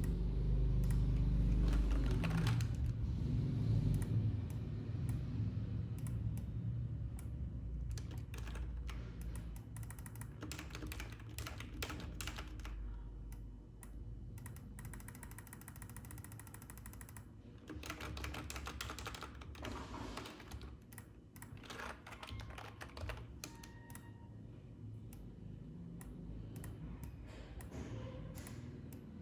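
Computer keyboard keys clicking in irregular runs, over a low background rumble that is loudest in the first few seconds.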